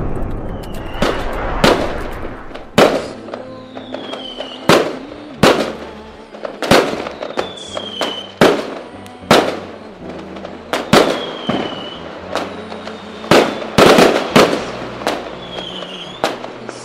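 Fireworks going off in quick succession, a sharp bang about once a second, with short falling whistles between some of the bursts.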